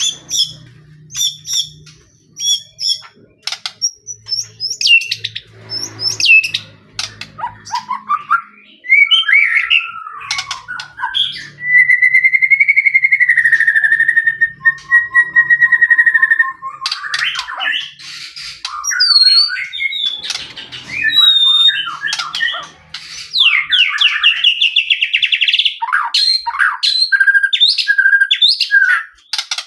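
White-rumped shama (murai batu) singing a loud, varied song. It opens with sharp clicks and short chattering notes, has long sliding whistles around the middle, and ends with quick repeated notes and trills.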